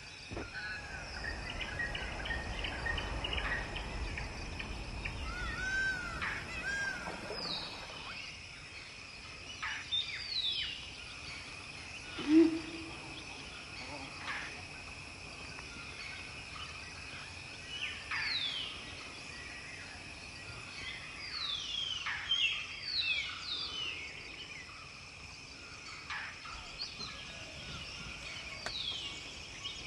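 Birds calling in a forest: many short, high, falling whistles scattered through, over a steady high ringing tone. A noisy, rumbling stretch fills the first several seconds, and one loud, short, lower call comes about twelve seconds in.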